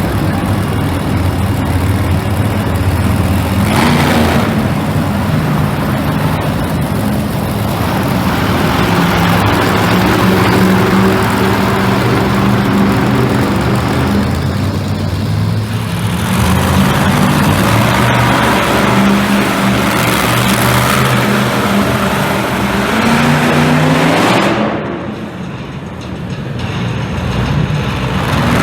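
Monster truck engine running hard under heavy noise, revving up sharply a few times: about four seconds in, again around twenty-three seconds and near the end.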